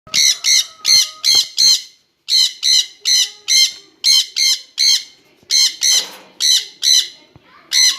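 Jenday conures giving loud, harsh squawking calls, about three a second in runs of three to five with short breaks between.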